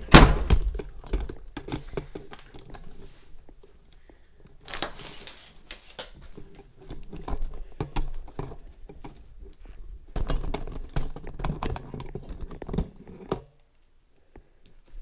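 Rustling, crinkling handling noise with many clicks and knocks close to the microphone, starting with a loud knock. It cuts off suddenly near the end.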